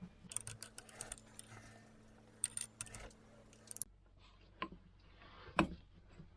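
Metal tools clinking and clicking against the boat engine as the seawater pump is fitted back on and its screws tightened: a scatter of sharp clicks and light metallic jingles. A low steady hum underneath stops about four seconds in.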